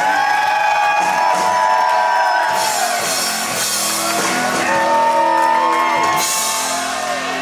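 Live heavy metal band playing loudly, with long held notes that bend off at their ends, twice, over a sustained low chord, and shouts or whoops mixed in.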